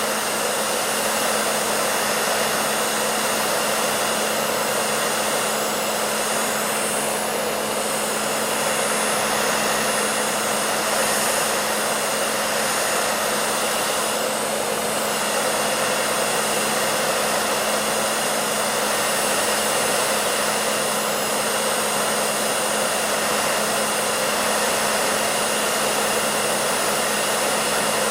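Hair dryer running continuously: a steady airy rush of blown air over the motor's constant hum, with no change in speed or level.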